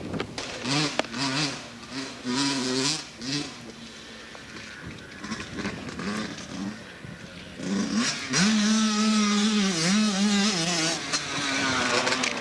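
Motocross dirt bike engines revving and dropping off as the bikes ride the track, quieter for a few seconds mid-way. About eight seconds in, a bike comes louder and holds high revs with short dips.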